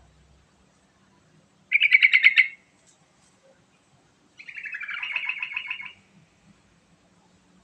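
Sooty-headed bulbul (trucukan) singing: a loud, quick run of notes about two seconds in, then a longer, softer phrase that falls in pitch about four and a half seconds in.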